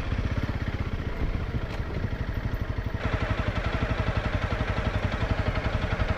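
Single-cylinder dual-sport motorcycle engine running at low revs with an even, rapid thumping beat; the sound grows fuller about three seconds in.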